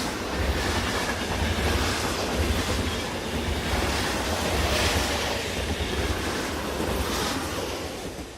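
Train running on rails: a steady rumble with clickety-clack from the wheels, fading out near the end.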